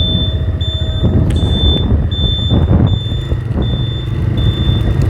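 Motorcycle running on the move, a steady low rumble with road and wind noise, over which a high electronic beep repeats about every three-quarters of a second.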